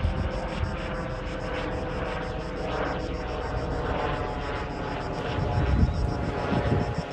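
Airbus H130 helicopter in flight, running with a steady whine and a fast, even pulsing over a low rumble. Near the end, low thumps of wind buffet the microphone.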